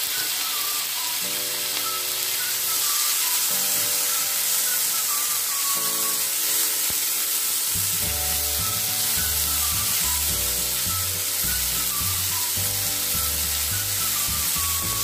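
Onions, tomato and green chillies sizzling as they fry in oil in a pan, stirred with a spatula. Background music plays along, with a bass line coming in about eight seconds in.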